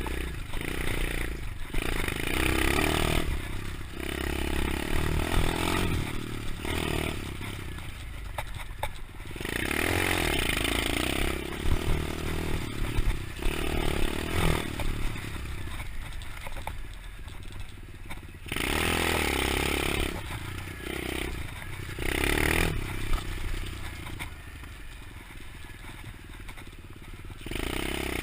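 125cc pit bike engine revving up and down while being ridden, its pitch rising and falling and its loudness swelling and dropping many times.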